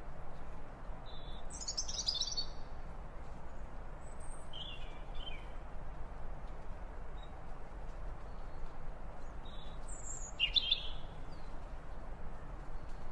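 Wild birds calling in short, high chirps and trills: a falling burst about two seconds in, a pair of notes around five seconds, and another falling call near ten seconds, over a steady background hiss.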